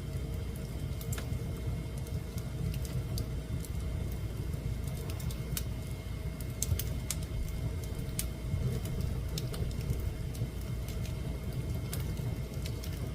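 Fire burning in a fireplace: a steady low rush of flames with scattered sharp crackles and pops.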